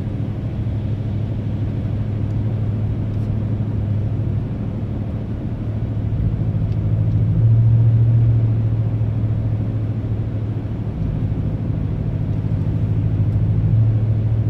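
Engine drone and road noise heard from inside a moving car. The low hum steps up and down slightly a few times.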